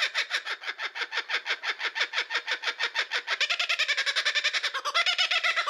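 A rapid, evenly pulsed animal call, like a bird's chattering laugh, about seven or eight notes a second, the pitch wavering near the end.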